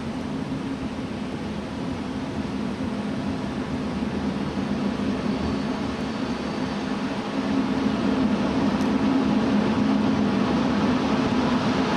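Deutsche Bahn ICE high-speed train approaching: a steady hum over a rushing noise that grows slowly louder, with a step up about two thirds of the way in.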